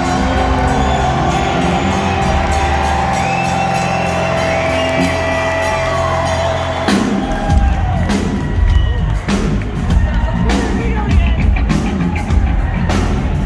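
Live rock band playing loud, with a held guitar chord and bass for the first half, then heavy drum hits coming in about halfway through; crowd whoops and cheers over the music.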